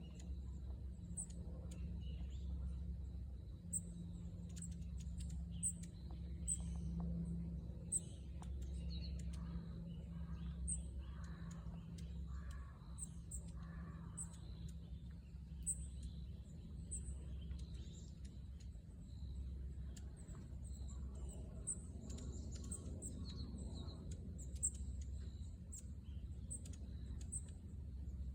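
A flock of long-tailed tits calling: many short, very high chips scattered throughout, with a low steady hum underneath.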